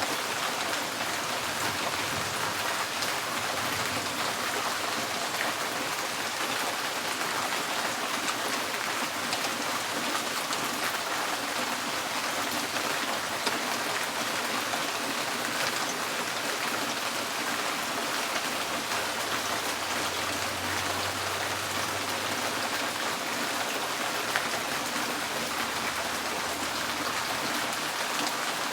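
Steady rain falling on a tin porch roof, an even, unbroken patter of drops. A faint low rumble joins underneath for several seconds in the second half.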